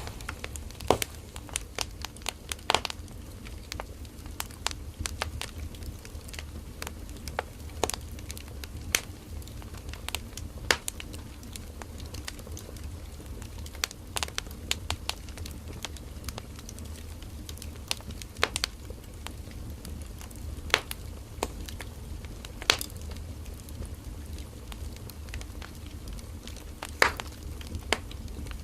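Firewood burning in a campfire, crackling and popping with sharp snaps at irregular intervals over a low steady rumble of the flames.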